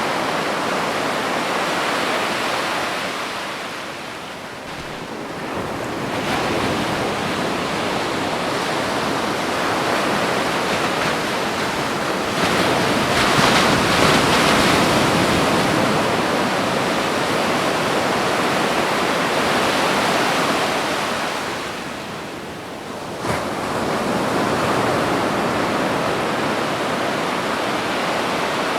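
Ocean waves washing onto a beach: a continuous rush of surf that swells loudest in the middle and eases off twice, with a sudden surge of a breaking wave shortly after one of the lulls.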